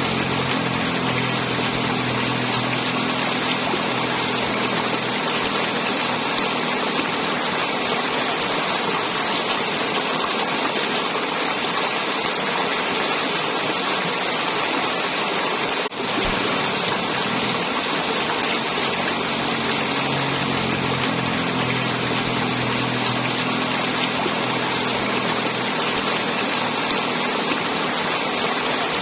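River water flowing and gurgling in a continuous rush. There is a brief break in the sound a little past halfway through.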